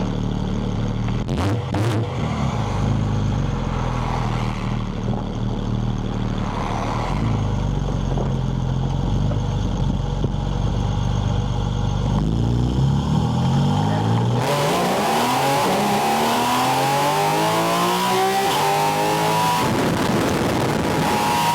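Porsche 718 Spyder RS's naturally aspirated flat-six pulling away, heard through a microphone on the air intake: a steady low engine note at first, then an intake hiss comes in and the revs rise for several seconds before dropping back and holding near the end.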